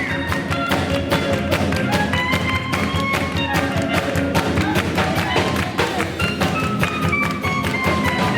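Live swing band playing with a steady beat, held melody notes stepping over a continuous run of percussion strokes.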